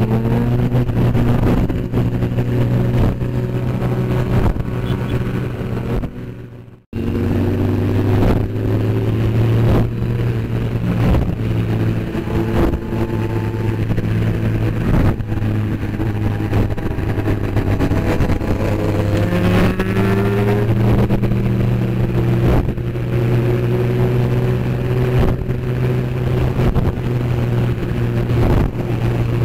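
Motorcycle engine running steadily at speed, with the revs rising about two-thirds of the way through. The sound cuts out sharply for a moment about seven seconds in.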